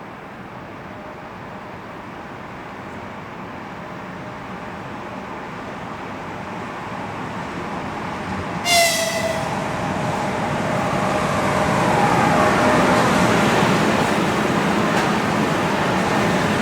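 Freight train approaching, its running noise steadily growing louder, with one short, high-pitched toot of the locomotive's whistle about nine seconds in.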